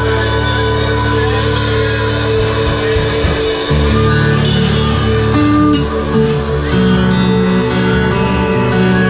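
Live rock band playing, guitars prominent over held chords and a bass line that shifts to new notes a little under four seconds in.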